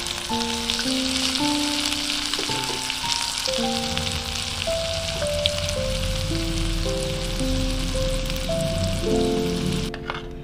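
Food frying in hot oil in a pan, a steady sizzle that cuts off suddenly near the end, under a gentle melodic background music.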